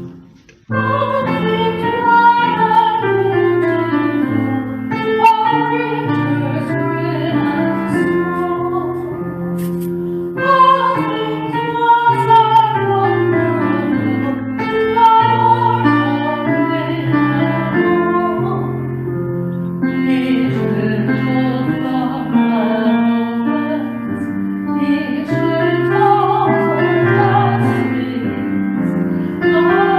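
A woman singing with piano accompaniment, her voice held in long notes with vibrato. The music drops out for a moment just after the start, then carries on without a break.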